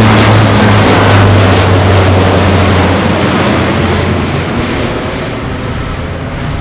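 Aircraft engines passing close by, loud, with a low steady drone under a wide rush of engine noise. The drone drops away about four seconds in as the sound recedes and grows quieter.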